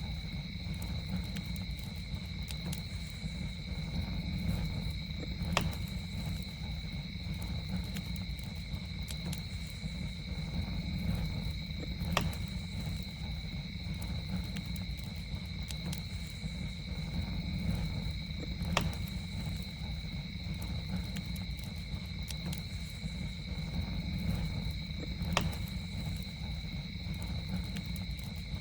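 Campfire burning with a low steady rumble and scattered crackles, with sharp pops about every six and a half seconds. Night insects keep up a steady high-pitched trill at two pitches.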